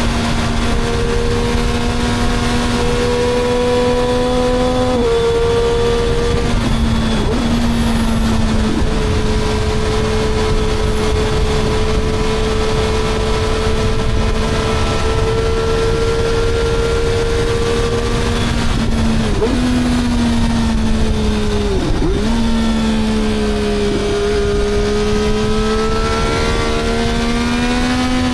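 Three-cylinder engine running under load with a strong, steady note that slowly climbs in pitch. It drops sharply in pitch a few times, about five, seven, nineteen and twenty-two seconds in.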